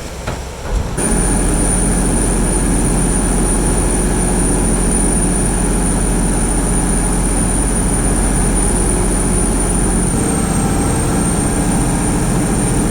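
Loud, steady vehicle ride noise that cuts in about a second in: a dense rumble with a thin high whine held throughout, the whine dipping slightly in pitch near the end.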